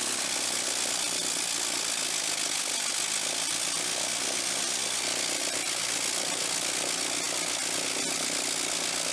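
Vintage engine running at a steady speed: an even, noisy mechanical sound with a constant hum underneath.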